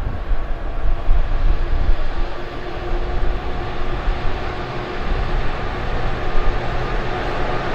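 Intermodal freight train running past, a steady rumble of wheels on rail.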